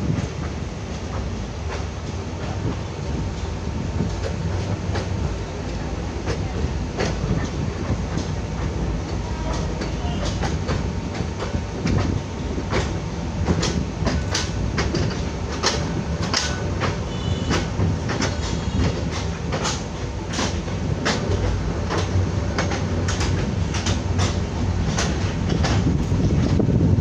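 Jamalpur Express passenger train running on the track: a steady rumble of the wheels and carriages, with sharp clickety-clack clicks of the wheels over rail joints that come thicker from about a third of the way in.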